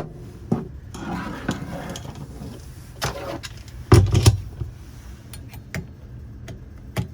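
Screwdriver backing out the screw that holds a faucet handle on: small metallic clicks and scraping, with a couple of louder knocks about four seconds in and a run of quick light clicks near the end.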